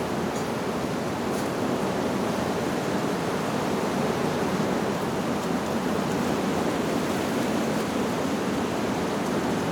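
Wind rushing steadily through leaves, with a faint tinkle of wind chimes about half a second in.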